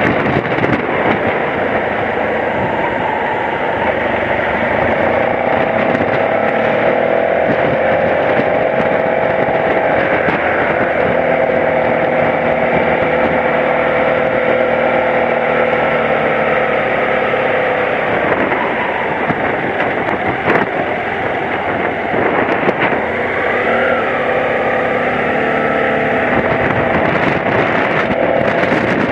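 BMW F700GS motorcycle's parallel-twin engine running steadily under way, its note shifting in pitch now and then as the road speed changes.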